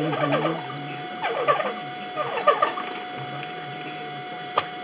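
Chewing of crunchy food (crisp bacon or toast) in three short crackly bursts about a second apart, over a steady electrical hum. A single sharp click comes near the end.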